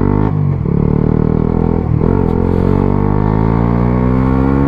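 125 cc single-cylinder motorcycle engine accelerating under load, its pitch climbing steadily, with two brief drops in pitch about a third of a second and two seconds in as it shifts up a gear.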